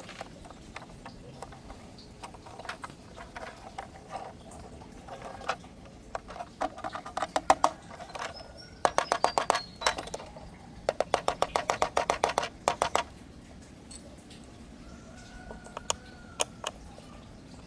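A toy's mechanism clicking in rapid runs of about ten clicks a second, with two longer runs of a second or two in the middle and scattered single clicks around them.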